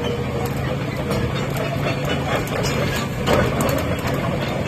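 Doosan DX300 tracked excavator's diesel engine running steadily, with scattered short metallic knocks, the loudest about three seconds in.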